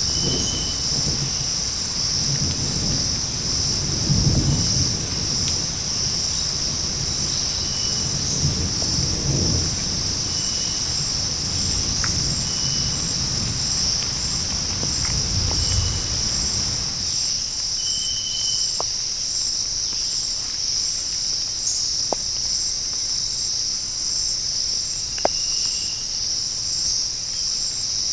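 Tropical rainforest insect chorus: a steady, dense high-pitched buzz, with short chirps repeating every second or two. A low rumble runs beneath it and stops abruptly about two-thirds of the way through; a few sharp ticks come near the end.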